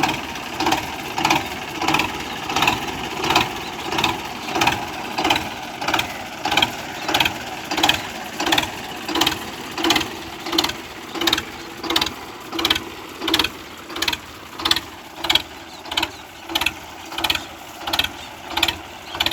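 Machinery clacking in an even rhythm, about three beats every two seconds, over a steady drone.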